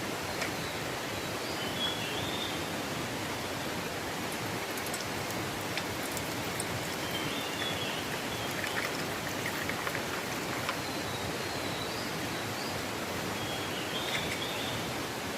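Steady, even rushing noise of the kind made by running water or rain, with a short high chirp heard four times.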